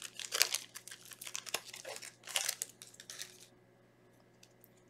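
Foil wrapper of a Yu-Gi-Oh booster pack being torn open and crinkled by hand: a run of irregular crackling rustles that stops about three and a half seconds in.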